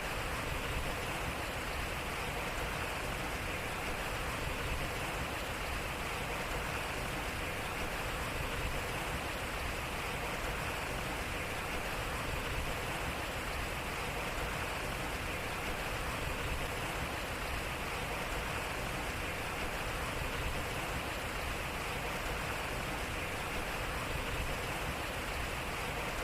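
Water flowing and splashing steadily at a turning water wheel.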